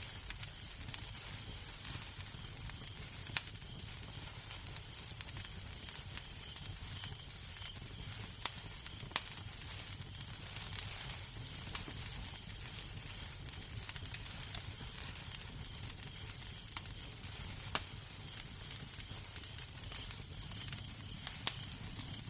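Wood fire crackling in a fireplace: a steady hiss and low rumble with irregular sharp pops and snaps, a few of them louder.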